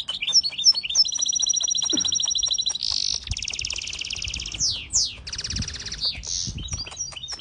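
A small bird singing: long, rapid, high-pitched trills and repeated whistled notes, with a couple of quick falling whistles about halfway through.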